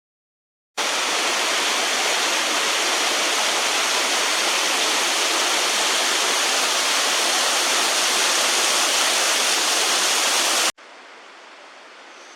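A waterfall pouring: a loud, steady rush of water that starts about a second in. Near the end it cuts to a much quieter rush of water.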